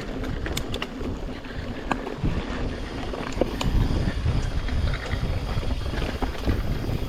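Mountain bike riding down a dirt trail: steady rumble of tyres over the ground and wind buffeting the helmet camera's microphone, with frequent small clicks and rattles from the bike, getting louder a couple of seconds in.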